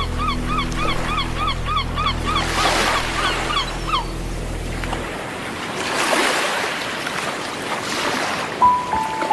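Sea waves washing on a shore under a soft music bed of sustained low pad tones, which stop about five seconds in, leaving the surf to swell. A rapid chirping, about four chirps a second, runs over the first four seconds, and a single held note comes in near the end.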